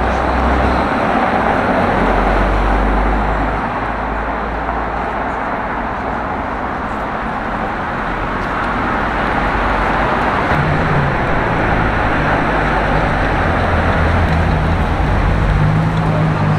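Street traffic: the steady road noise of passing cars, with a low engine note from a vehicle growing louder in the second half.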